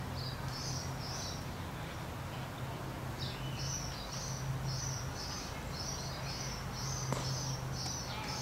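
A bird chirping repeatedly in short high notes, about two a second, starting up again about three seconds in, over a steady low hum.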